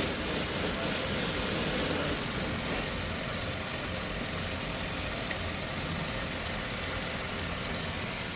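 Toyota Hilux engine idling steadily.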